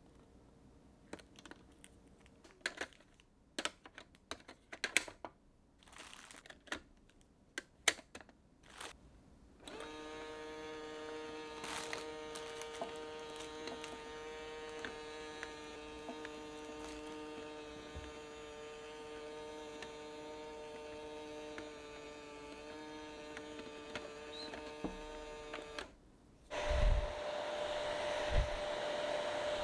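Light clicks and knocks for about ten seconds, then a small electric appliance hums steadily for about sixteen seconds and stops. Near the end a louder, airier whirring starts up, like a blower.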